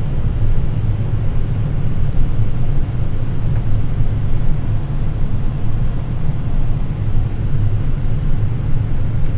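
Steady low rumble of airflow and engines in a Boeing 787's cockpit on final approach, with the landing gear down and flaps at 30.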